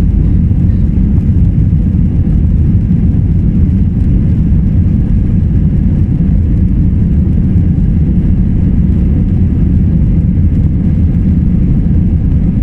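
Airbus A321-200 cabin noise heard from economy: a loud, steady, low rumble of the engines and airflow that does not change.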